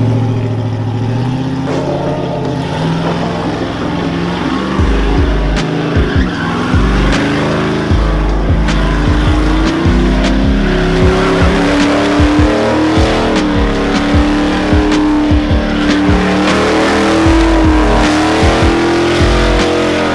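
A truck doing a burnout: the engine revs up over the first few seconds and is then held high while the tyres squeal. Repeated sharp cracks run through the sound.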